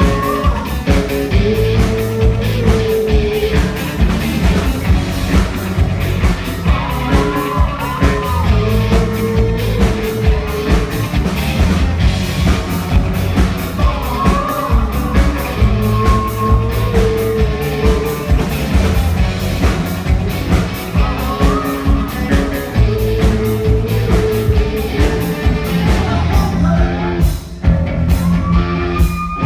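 Rock band playing live and loud: a steady drum-kit beat with guitar and bass, and a sung melody over it; the band drops out briefly near the end, then comes back in.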